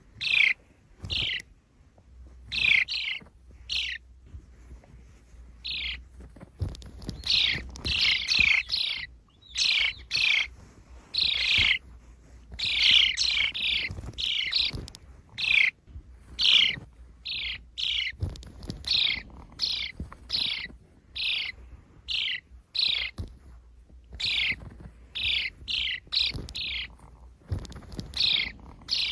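Sparrows chirping: a long, uneven run of short, sharp chirps, some alone and some in quick clusters of two to four, each dropping in pitch.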